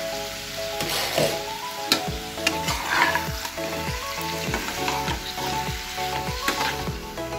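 Mango pieces sizzling in oil in a kadai, stirred and turned with a flat metal spatula that scrapes against the pan about twice a second.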